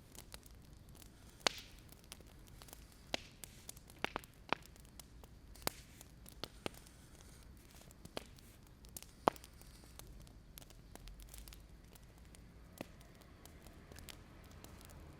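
Wood fire crackling: irregular sharp pops, about one a second, over a faint steady hiss.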